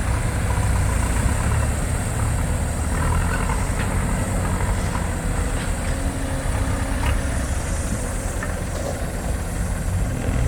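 Heavy diesel engine running steadily at a low, even rumble, with a few faint knocks.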